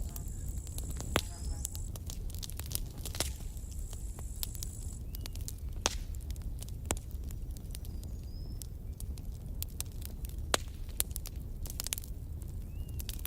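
Campfire burning, with irregular sharp crackles and pops over a steady low rumble. The loudest pops come about a second in, near the middle and about three quarters of the way through. A thin high hiss comes and goes in the first few seconds.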